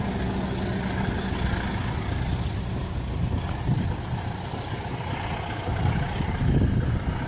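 KAI CC201 diesel locomotive's engine running steadily. Wind buffets the microphone in gusts near the end.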